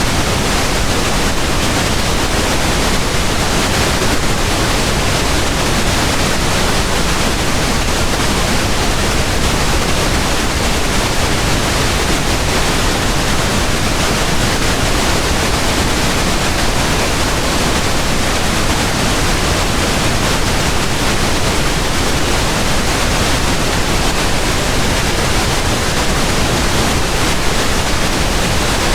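Pink noise: a steady, even hiss spread across all pitches, with no change.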